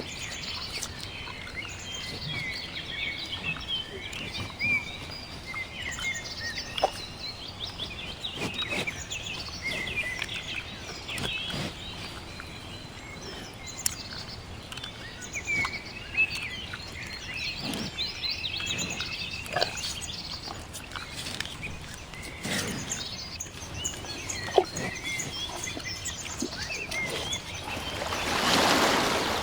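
Many small birds chirping and twittering, with a few sharp clicks here and there and a brief rush of noise near the end.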